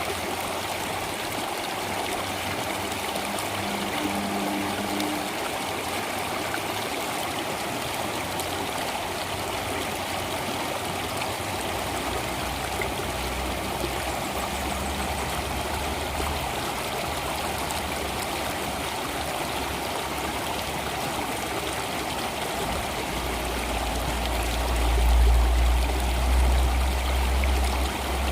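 Flowing stream water, a steady rush with trickling, with a deep low rumble that grows louder in the last few seconds.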